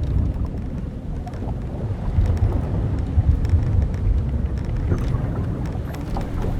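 Old wooden sailing ship at sea: a deep, steady rumble of wind and waves working on the hull, swelling now and then, with faint ticks and creaks from the timbers and rigging.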